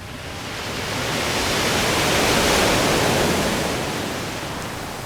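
A broad rushing noise that swells to a peak about two and a half seconds in, then eases off and cuts off abruptly at the end.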